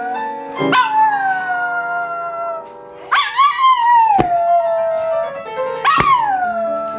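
Dog howling: three long howls, each rising briefly and then sliding slowly down in pitch, over background music with piano.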